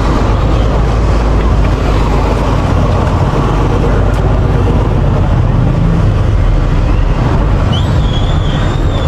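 Steady, loud low rumble of street and road-traffic noise. About eight seconds in, a high squealing tone rises, holds with a waver for about two seconds, then drops away.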